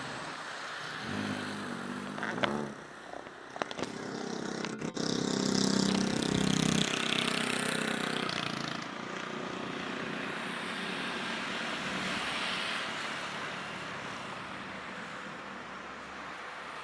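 Jet airliner engines roaring as the aircraft passes, an even noise that swells and then slowly fades. Over the first half, a nearby motor engine revs up and down in steps, loudest about five to eight seconds in.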